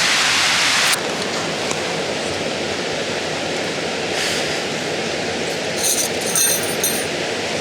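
Steady rushing of running water from a stream. About a second in, a louder hiss breaks off abruptly and a lower, even rush follows, with a few light metallic clinks near the end.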